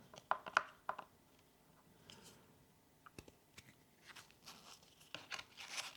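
A thin pry tool working at the glued edge of an iPad mini 4's screen: a few sharp clicks in the first second, then faint scraping and crackling as it is pushed in between the glass and the body.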